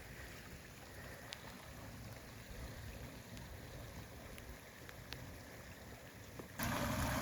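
Faint, steady hiss of rain and running water, with a few light ticks of drops. About six and a half seconds in, a louder rush of water sets in suddenly: water pouring over the board in a flooded orchard weir box.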